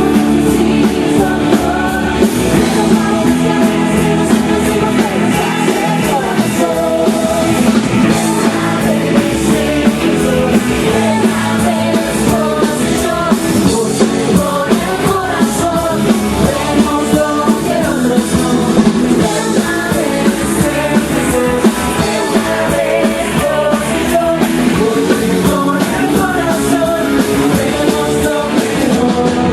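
A rock band playing live with singing and drums, at a sound check.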